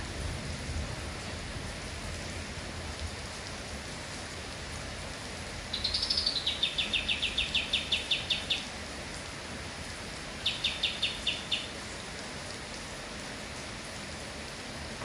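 Kapas tembak (scaly-crowned honeyeater) singing in steady rain. About six seconds in it gives a quick rising-and-falling whistle that runs into a fast rattling trill of about a dozen notes. A shorter trill of about six notes follows some four seconds later.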